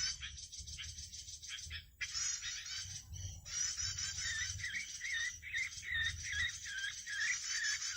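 Small songbirds calling in a fast, dense chirping chatter, with a series of repeated rising-and-falling whistled notes from about halfway through. A low rumble sits underneath.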